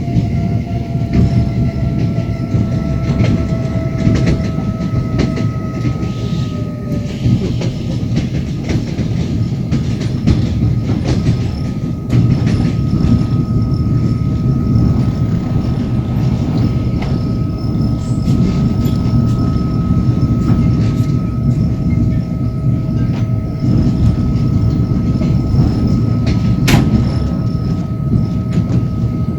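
Passenger train carriage running along the track: a steady rumble with the clatter of wheels over rail joints, and a steady high tone, slightly falling at first, riding above it. One sharp click stands out near the end.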